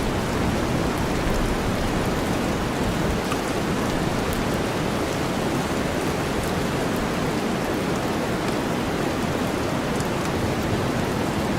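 Steady rain mixed with a deep white-noise bed, with a few faint drop ticks on top.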